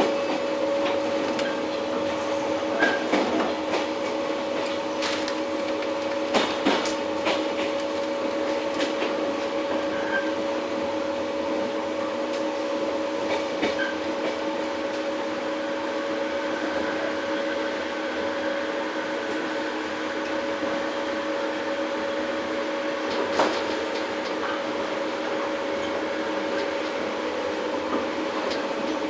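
Inside a JR 115 series electric multiple unit motor car (MoHa 114): a steady hum with a constant low tone, broken by scattered sharp clicks and knocks at irregular intervals.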